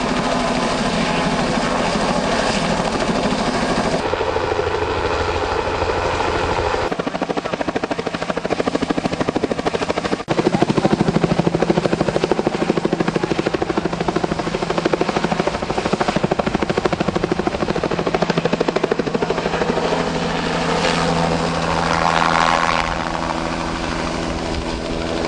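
Helicopter running close to the microphone: a fast, even rotor-blade chop over a steady engine tone. The sound changes abruptly a few times as the footage cuts between shots.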